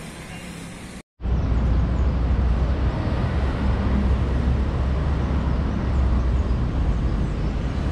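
Suzuki Gixxer 250's single-cylinder engine idling steadily, starting about a second in.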